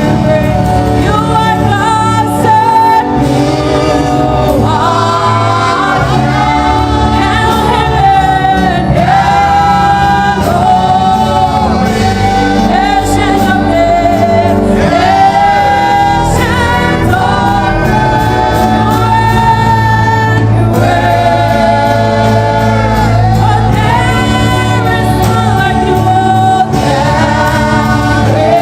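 Gospel music: a choir singing with instrumental backing and a steady bass.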